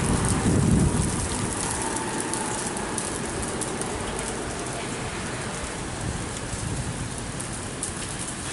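Freezing rain and ice pellets falling steadily, a dense hiss full of fine ticks as the pellets strike surfaces. A low rumble of wind on the microphone fades out about a second in.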